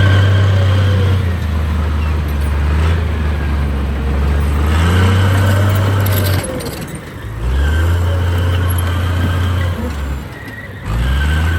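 Heavy diesel engine of earthmoving machinery working, its pitch rising and falling as it revs up and eases off several times, with two short drops in level in the second half.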